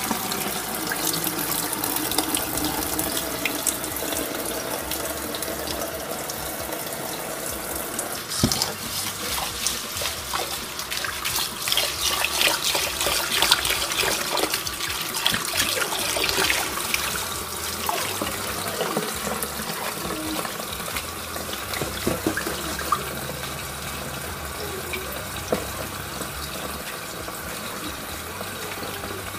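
Kitchen tap running into a bowl of rice in the sink while a hand swishes the rice through the water, rinsing off the film until the water runs clear. The splashing is busiest from about 8 to 17 seconds in.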